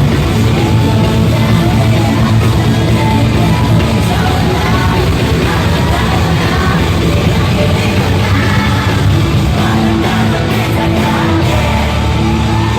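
Loud amplified live concert music over a PA system, with a voice singing and yelling over a dense rock-style backing.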